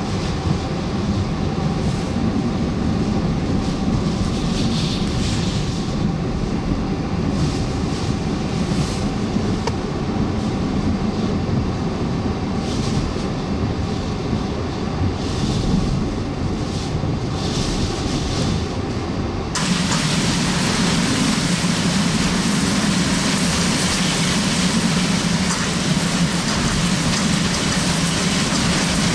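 Hurricane eyewall winds over 100 mph and heavy rain, a loud steady rushing noise. About two-thirds of the way in it turns suddenly brighter and hissier.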